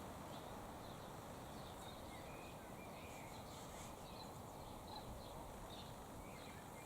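Faint outdoor ambience: a steady wind rush with scattered faint, short bird calls and chirps in the background.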